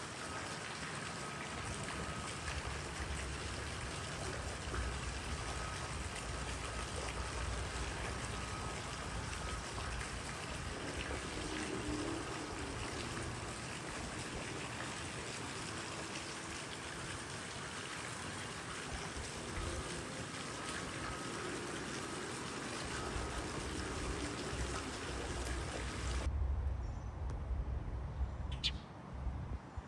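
Steady rush of flowing water, like a stream, with an even hiss. Near the end it cuts suddenly to a quieter background with low rumble and a short high chirp.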